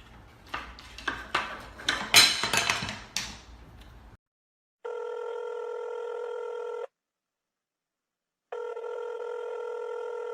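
A run of sharp knocks and rustling, loudest about two seconds in, cuts off suddenly. It is followed by a telephone ringing tone: two steady rings, each about two seconds long, with about a second and a half of silence between them.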